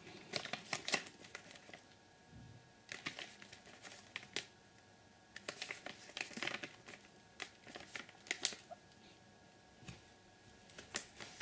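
Hands handling a firework cake's packaging: intermittent crinkling and rustling with small clicks and taps, in short scattered bursts.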